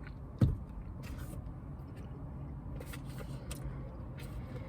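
Small handling noises inside a car: a single knock about half a second in, then a few light clicks and rustles, over a low steady hum.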